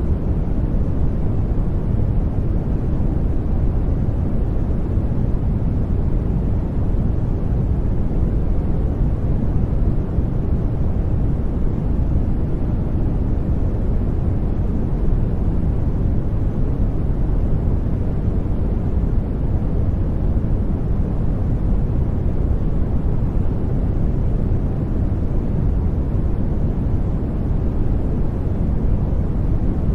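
Brown noise: a steady, deep rushing hiss, strongest in the bass and fading toward the treble, unchanging throughout.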